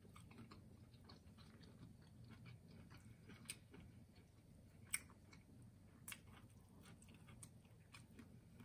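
Faint, close-up mouth sounds of chewing saucy seafood-boil food: soft wet clicks and smacks throughout, with a few sharper clicks, the loudest about five seconds in.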